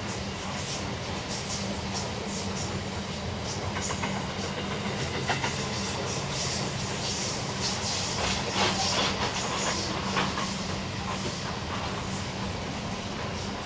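EL class diesel locomotives hauling a train of hopper wagons, with their engines humming steadily. The wagon wheels click and hiss on the rails, most busily in the middle.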